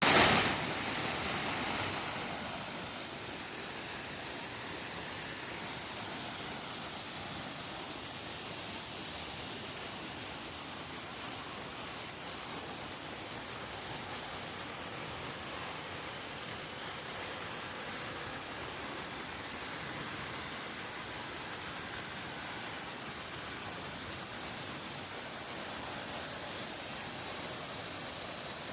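Steady rushing noise, strongest in the high range, after a louder burst in the first second or two.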